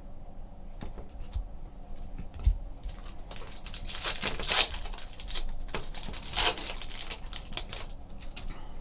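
Trading cards and foil pack wrappers being handled on a table: a run of quick rustles and card-on-card slides as the cards are flipped through, thickest in the middle, with a soft knock about two and a half seconds in.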